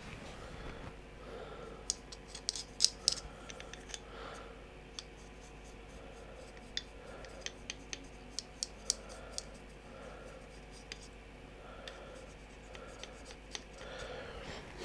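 Dry brush scrubbing over the raised stone texture of a painted miniature: faint scratching of bristles with scattered sharp ticks, bunched about two to three seconds in and again around seven to nine seconds.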